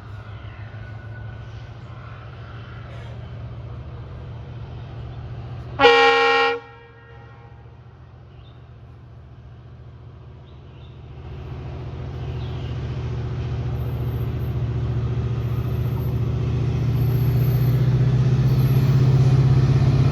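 A WDP-4D diesel-electric locomotive with a V16 two-stroke engine approaching: one short horn blast about six seconds in, then the engine's low drone grows steadily louder as it nears.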